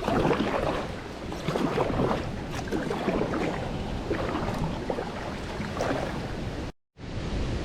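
Strong wind gusting on the microphone, with water splashing and lapping around a kayak. The sound cuts out for a moment near the end.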